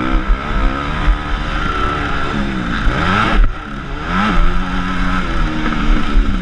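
Motocross bike engine from an on-board camera, revving up and down through the gears. The revs drop sharply about three and a half seconds in, then climb again and hold steady.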